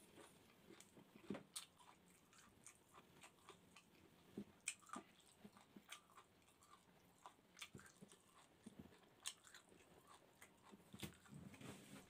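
Close-up chewing of barbecued chicken gizzard with rice: irregular wet mouth clicks and smacks, some sharper than others, with no steady rhythm.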